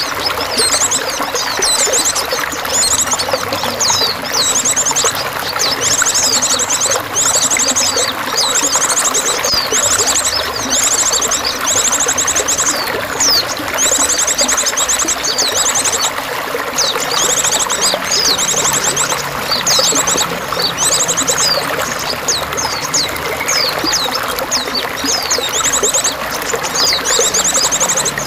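Water pouring and trickling steadily, with small songbirds giving high chirps and rapid trills over it again and again.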